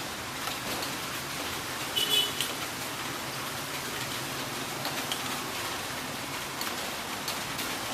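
Steady heavy rain hiss with scattered drop ticks. About two seconds in comes a brief, louder, high-pitched sound.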